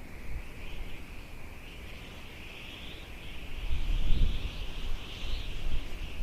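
Outdoor nature ambience: a continuous, wavering high-pitched chorus of wildlife. Wind rumbles on the microphone in gusts, the strongest about four seconds in.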